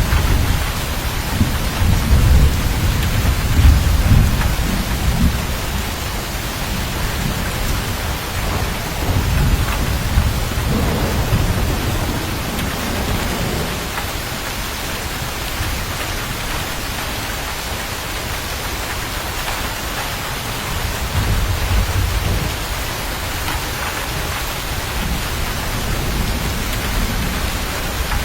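Steady heavy rain hissing, with long rolls of low thunder rumbling through it: strongest in the first few seconds, again around the middle, and once more briefly about three quarters through.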